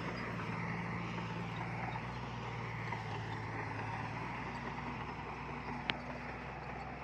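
Heavy construction machinery's diesel engine running steadily with a low drone. A single brief sharp click comes near the end.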